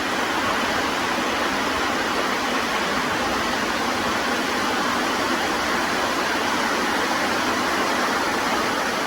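Heavy rain pouring down: a steady, even hiss of a downpour.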